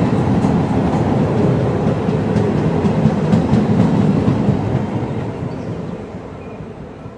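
Passenger train moving along the platform: a steady, heavy rumble with a few clicks, fading away over the last two or three seconds.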